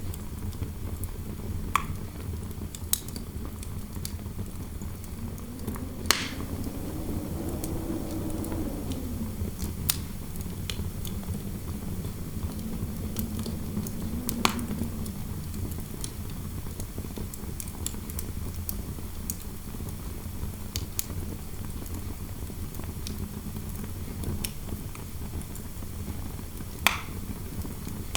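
Fireplace crackling with scattered sharp pops, over steady low interior wind noise; a hollow wind howl swells and fades a few seconds in, and a fainter one follows a few seconds later.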